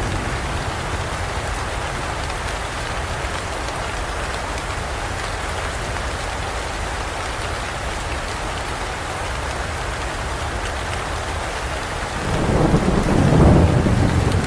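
Steady rain pouring down, with a low rumble of thunder swelling up about twelve seconds in, peaking and then easing near the end.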